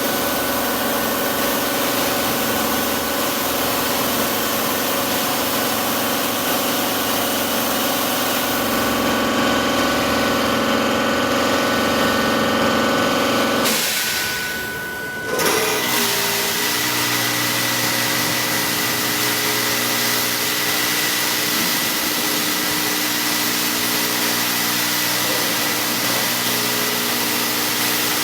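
Car wash machinery running with a steady mechanical hum and whine. About halfway through it briefly dies away, then starts up again with a different, lower set of steady tones.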